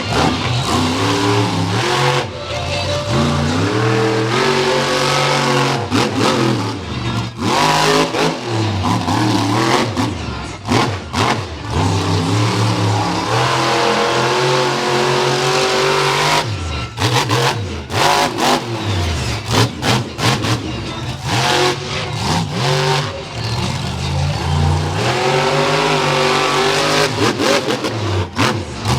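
Monster truck engine revving hard over and over, the pitch climbing and dropping with each stab of throttle. Sharp bangs come in clusters at several points.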